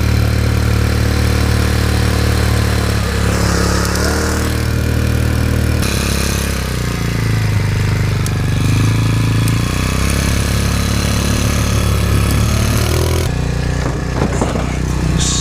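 Small outboard motor driving an inflatable dinghy, running continuously. Its engine note shifts a few times with the throttle and drops near the end.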